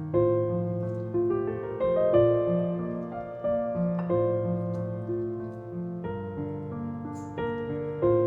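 Soft solo piano music: slow chords and a melody, each note struck and left to fade.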